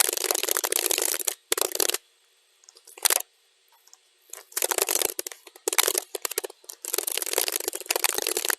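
Computer keyboard typing, sped up to double speed, so the keystrokes run together in dense clattering runs. It pauses for about two and a half seconds in the middle, broken by one short burst, then resumes.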